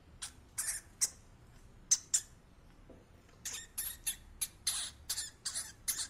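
Pet rat chewing dry food mix, close up: a string of short, sharp, crisp crunches at irregular intervals, with a brief pause near the middle and a quicker run of crunches after it.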